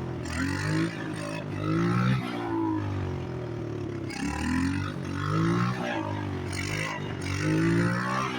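Motorcycle engine revving up and falling back again and again, about four rises and falls in turn.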